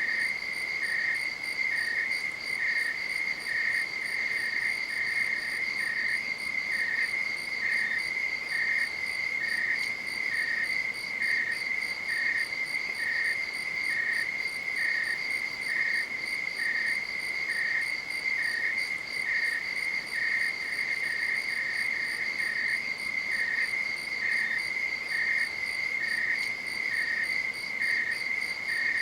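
Crickets: one continuous high-pitched trill, with a second, slightly lower chirp repeating about once a second.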